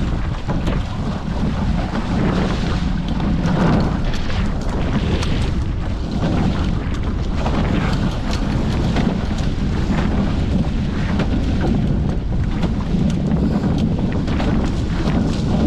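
Wind buffeting the microphone aboard a Hobie 14 catamaran under sail, a heavy, steady rumble that rises and falls with the gusts, over the rush of water and chop along the hulls.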